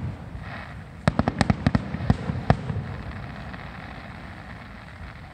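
Aerial fireworks shells bursting: a rapid string of sharp bangs about a second in, lasting about a second and a half, then a rumble that slowly fades.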